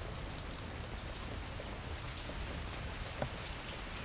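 Steady daytime rain falling on a bed of ivy leaves, with scattered individual drops ticking and one louder drop hit about three seconds in.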